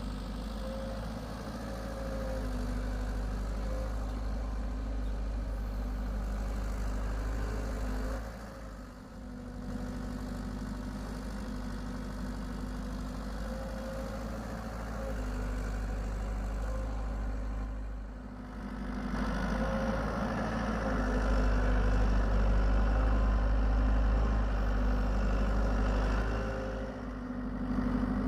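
Hitachi EX75UR excavator's diesel engine running steadily while digging. It dips briefly twice, then runs louder for several seconds in the second half as the machine works harder.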